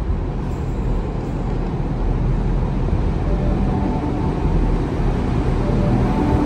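Electric train running into an underground station platform: a steady low rumble in the tunnel growing slightly louder as it approaches, with a faint whine joining about halfway through.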